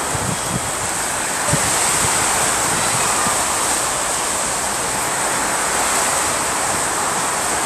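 Strong wind rushing steadily and buffeting the microphone, slightly louder from about a second and a half in.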